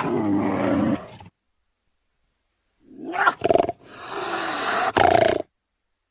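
Cougar calling: a call that trails off about a second in, then after a pause two short sharp calls run into a longer drawn-out one that stops about five and a half seconds in.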